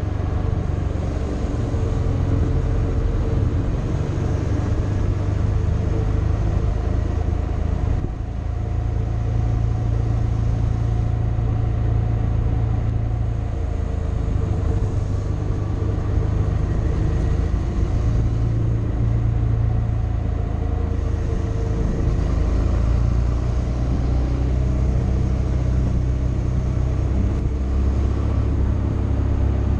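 Motorcycle engine running steadily under way, with a brief dip in level about eight seconds in.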